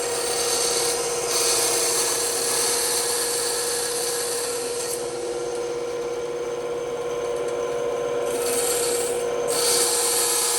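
Bandsaw running with a steady hum while its blade cuts through wood; the hiss of the cut swells and eases several times as the workpiece is fed.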